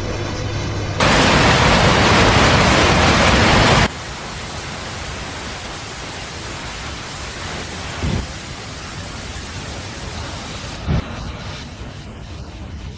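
Heavy rain falling, an even hiss. It is loudest for about three seconds near the start, then goes on steadily and softer, with two brief dull thumps in the second half.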